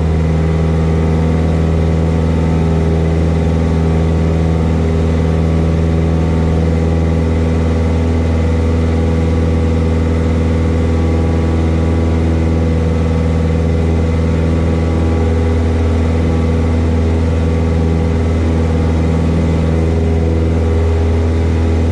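Cessna 172S's four-cylinder Lycoming engine and propeller running steadily at climb power just after takeoff, a constant even drone.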